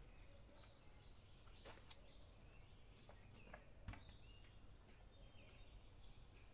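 Faint outdoor background with small birds chirping now and then. A few soft knocks and rustles come as fresh herbs are pressed into a metal pot, the loudest a short knock about four seconds in.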